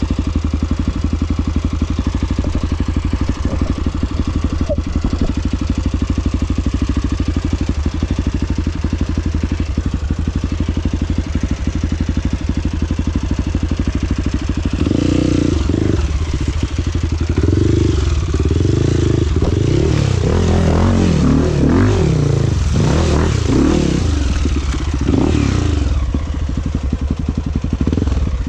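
Trail motorcycle engine running steadily. From about halfway it revs up and down unevenly, with clattering.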